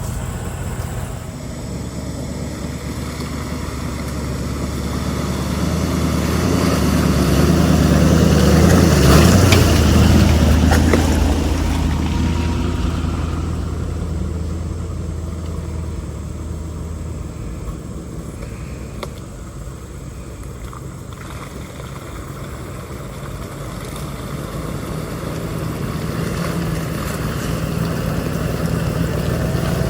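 Engine of an off-road vehicle running as it works along a rough dirt trail, growing louder to a peak about nine seconds in with a few knocks, easing off, then building again near the end.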